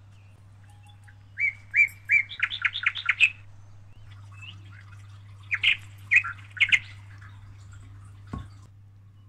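A small bird chirping in quick runs of short, sharp, high notes, one run about two seconds in and a shorter one about six seconds in, over a steady low hum. A single dull knock near the end.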